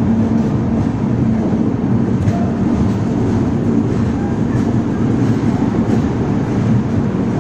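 Steady running noise of an Indian Railways express train with LHB coaches under way, its wheels rumbling on the rails.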